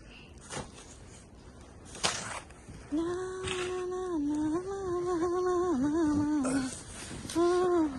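A person humming a simple tune in long held notes that step up and down in pitch, starting about three seconds in and pausing briefly near the end. Two short noises come before the humming starts.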